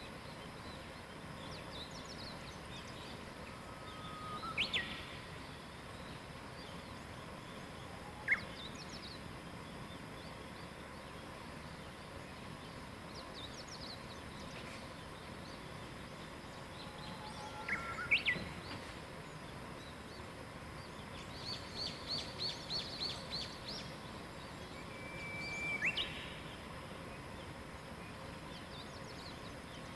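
Wild songbirds singing over a steady background hiss: a handful of short whistled phrases, some a held note that breaks into a quick sweep. About two-thirds of the way through comes a quick run of repeated high notes.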